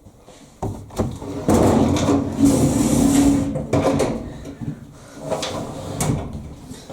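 An old tumble dryer being handled: a couple of knocks, then a rough rumbling scrape for about two seconds, then a few more knocks.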